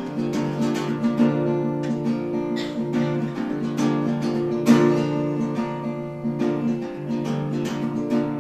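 Acoustic guitar strummed in a steady rhythm, an instrumental passage of a folk song between sung lines.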